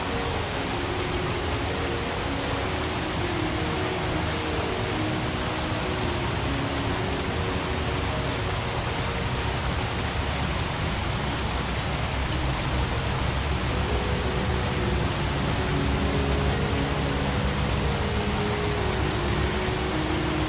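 Forest stream water rushing steadily, with short low gurgling tones over the rush.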